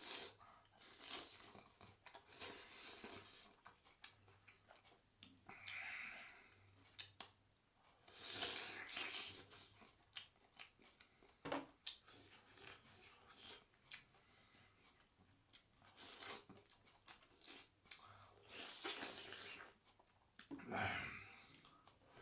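Close-up eating sounds: food being chewed and torn, heard as a string of short noisy bursts and clicks with brief pauses between them.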